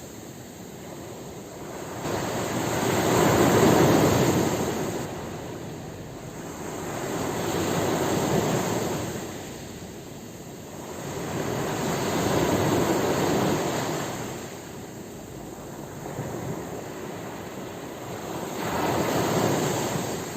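Ocean waves breaking and washing up the shore, rising and falling in four slow surges, one about every four to five seconds.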